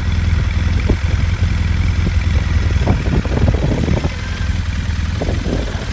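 2009 Triumph Bonneville T100's parallel-twin engine running steadily at idle through its exhaust, with wind buffeting the microphone, most strongly about three to four seconds in.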